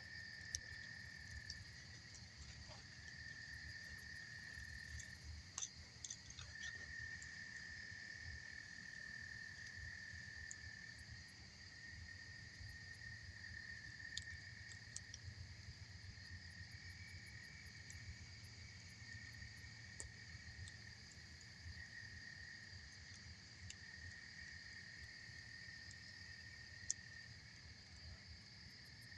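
Faint campfire crackling, with scattered sharp pops, over steady chirring of insects, likely crickets, that runs throughout, and a low steady rush underneath.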